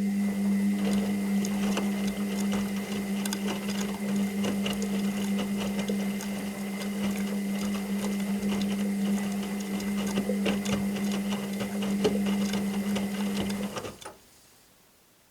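Washing machine motor turning the drum: a steady electric hum with a busy patter of small clicks and rattles, stopping abruptly about fourteen seconds in.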